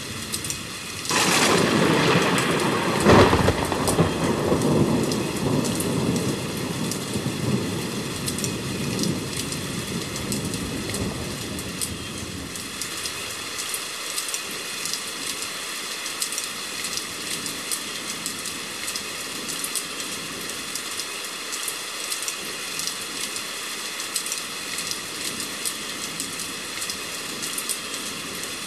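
Thunder breaks about a second in, with a sharp crack a couple of seconds later, and rumbles away over about ten seconds. Steady rain falls throughout, with many small drop clicks once the thunder has faded.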